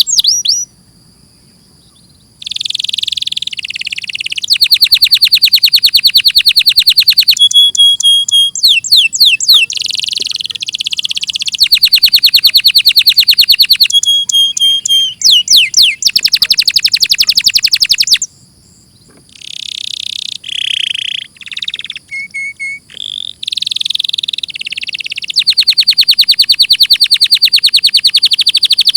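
Domestic canary singing: long phrases of very fast repeated notes (rolls and trills), broken by quick downward-sweeping notes around a third and halfway through, with brief pauses about a second in and about two-thirds of the way through.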